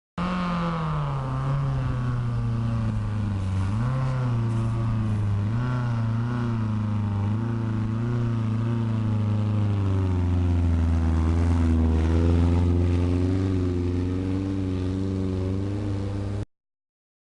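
VW Beetle's air-cooled flat-four engine pulling hard up a trial climb, its revs wavering up and down as it works under load. The sound cuts off suddenly near the end.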